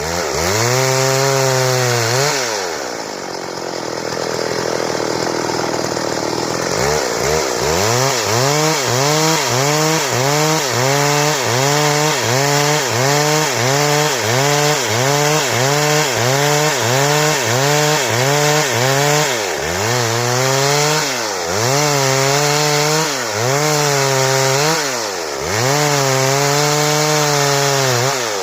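Stihl two-stroke chainsaw cutting into wood, its engine pitch repeatedly dropping under load and picking back up: about one and a half dips a second for a long middle stretch, slower and deeper dips near the end.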